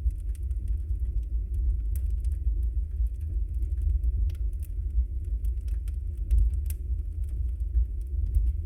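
Wood fire burning in a fireplace: a steady low rumble of the flames with frequent small crackles and pops of the burning logs, a few of them sharper.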